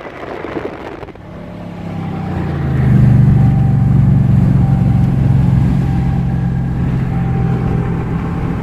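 Ram 1500 Rebel pickup running through its changed, non-stock exhaust with a low, steady drone. It swells louder over the first few seconds, then holds steady.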